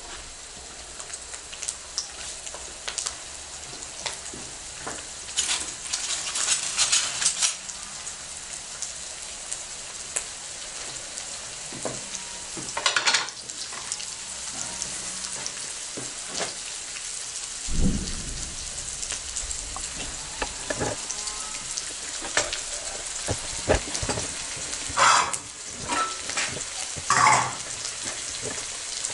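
Sliced onion and garlic sizzling in hot oil in a wok: a steady hiss scattered with crackles and pops, swelling in several louder bursts. A dull knock partway through.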